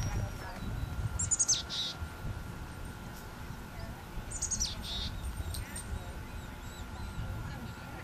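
A bird calling twice, each call a quick run of high chirps falling in pitch, about three seconds apart, over a low rumble.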